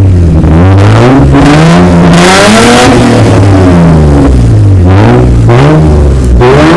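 Acura RL engine with its muffler deleted, revved twice: each time the pitch rises and falls, the first rev the highest, about two and a half seconds in. The exhaust is very loud.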